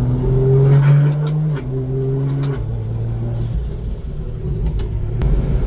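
Turbocharged Toyota 2JZ straight-six running under way, heard from inside the car, its pitch dropping in two steps as the gearbox shifts up, with a few light clicks.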